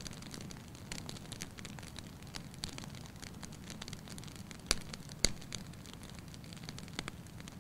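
Wood fire crackling in a fireplace over a steady low rumble of flames, with frequent small crackles and two sharp, louder pops about half a second apart around two-thirds of the way through.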